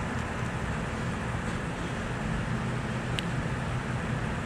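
Motorcycle engine, most likely the Harley-Davidson Ultra Limited's V-twin, idling with a steady low rumble. A faint click comes about three seconds in.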